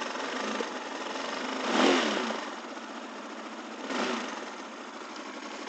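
Bashan Storm 250 motorcycle engine running just after a start with the choke at half on a cool day, briefly revved twice: a bigger rise about two seconds in and a smaller one about four seconds in.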